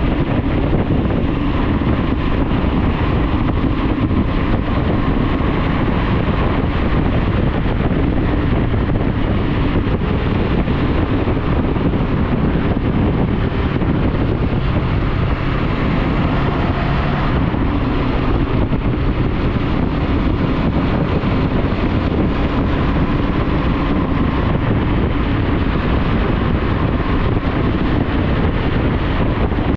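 Motorcycle riding at a steady speed: the engine runs under a loud, even rush of wind noise on the camera microphone.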